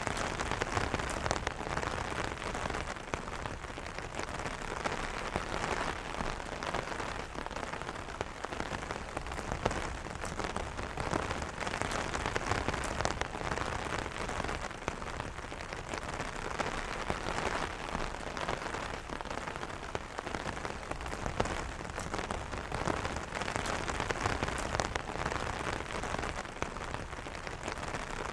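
Steady rain pattering on an umbrella: a dense hiss of drops with many small individual taps, even throughout.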